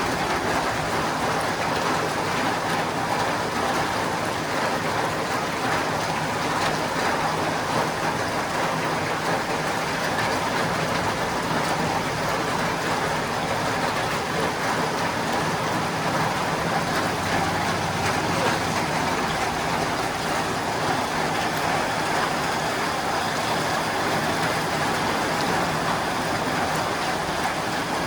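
Steady rain drumming on a tin roof, a dense, even patter of many small drops with no let-up.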